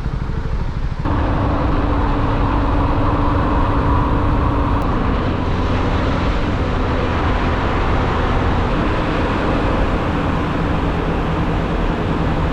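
Small motor scooter riding on the road: a steady engine drone mixed with wind and road noise, which becomes suddenly louder about a second in.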